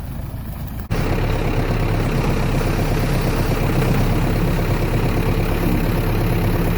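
A heavy vehicle's engine idling steadily, its rumble jumping louder at a cut about a second in.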